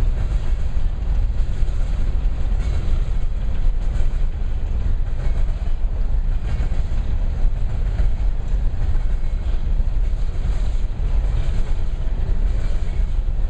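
Freight train cars rolling past close by: a steady, loud rumble of wheels on rail.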